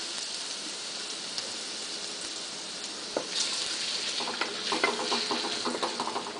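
Minced garlic and ginger sizzling gently in oil in a stainless steel wok, a steady soft hiss. Near the end there is a run of quick ticks and crackles, as more oil goes into the pan.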